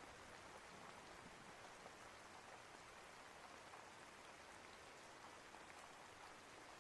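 Faint, steady rainfall with scattered soft drop ticks.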